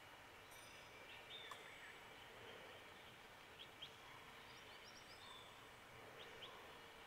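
Faint, scattered short bird chirps, a couple at a time, over a quiet steady hiss of outdoor background.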